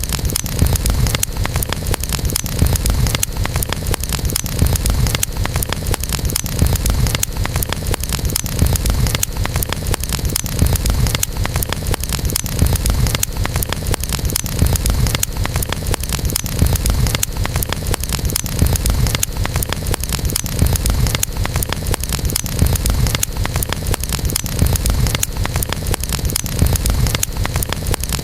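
Campfire burning, with a steady low rumble and frequent small crackles and pops of burning wood.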